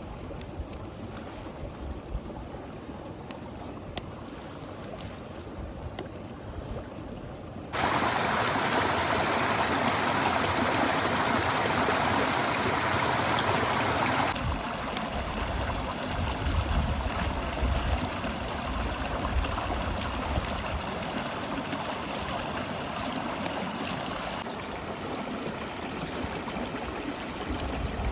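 A flowing river's water rushing as a steady, even noise. It jumps abruptly much louder about eight seconds in, softens and changes character around fourteen seconds, and drops a little again near the end.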